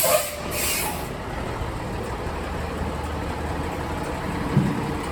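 Fire truck's air brakes hissing in two short bursts in the first second, then a steady low rumble of an idling engine and street traffic.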